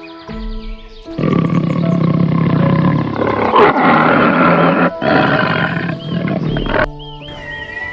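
A loud, rough animal call in two long stretches, with a short break about five seconds in, over soft background music.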